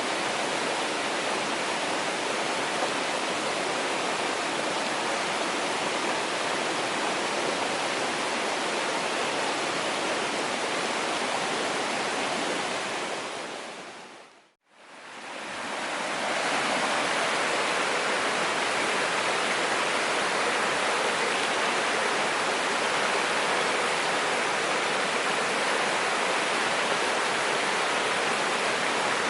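Mountain stream rushing steadily. About halfway through, the sound fades briefly to silence and fades back in, then continues a little brighter.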